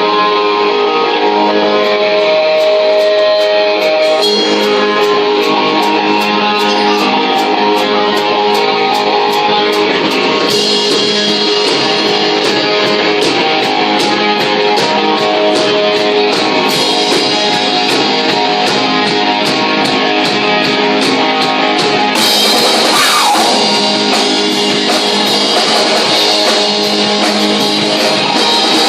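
Live rock covers band playing a guitar-led instrumental intro: guitar notes at first, a steady beat coming in, and the whole band fuller and brighter about three-quarters of the way through.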